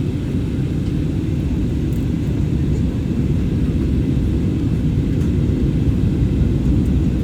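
Steady low rumble of airliner cabin noise during the landing approach: engine and airflow noise heard from inside the passenger cabin.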